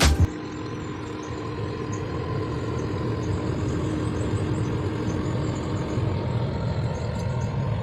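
Steady rumbling noise with a faint hum from carbon burning in a drum, the fire now at the glowing-ember stage. Background music cuts off at the very start.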